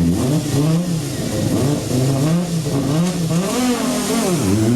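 Rally car engine at racing effort, revving up and down in quick repeated swings as the driver goes on and off the throttle. Near the end the pitch drops sharply, then climbs steadily under hard acceleration.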